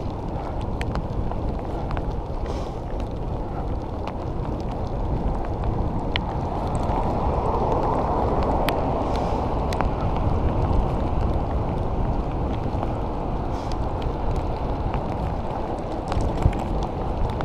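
Wind rushing over the microphone while riding a bicycle in the rain, with the hiss of tyres on a wet road and scattered small ticks.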